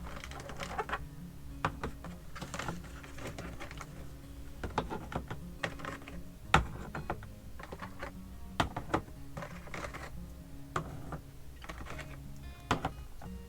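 Eggs being set one by one into a plastic egg holder tray: irregular light clicks and taps of eggshell and plastic, the sharpest a little past the middle.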